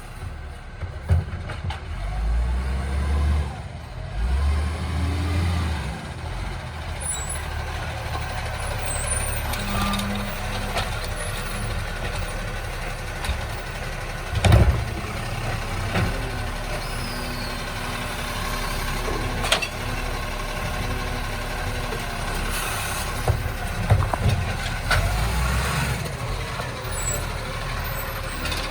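Recycling garbage truck at work: its diesel engine running steadily, with hisses of air and several thumps, the loudest about halfway through.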